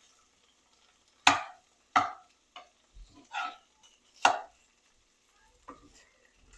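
Kitchen utensils knocking against cookware while cooking: four loud, sharp knocks at uneven intervals, with fainter taps between them.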